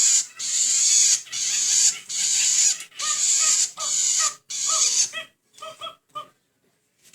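Long-tailed shrike (cendet) giving a run of harsh, rasping calls, about one a second. Shorter, pitched notes join in partway through, and it ends in a few clipped notes about six seconds in.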